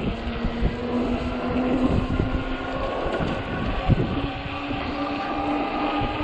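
Electric hub motor of a 48-volt fat-tire e-bike whining steadily under way, its pitch stepping up about four seconds in, with wind buffeting the microphone and rumble and thumps from the ride over rough snowy pavement.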